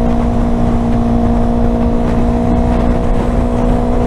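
Yamaha R3 parallel-twin motorcycle engine running at a steady speed while riding, with a constant hum and heavy wind rumble on the microphone.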